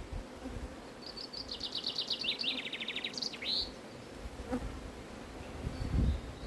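Honeybees humming steadily around an open hive. A bird sings a fast trill of repeated notes that falls in pitch, from about one second in to a little past three seconds, and a few low thumps come near the end.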